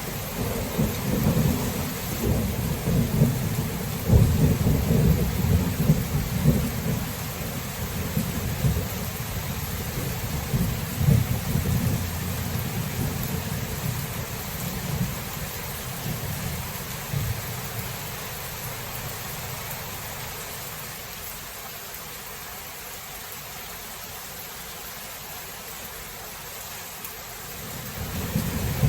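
Thunderstorm: steady heavy rain with a long rolling rumble of thunder that dies away over the first half, leaving only the hiss of rain, before more thunder begins to build near the end.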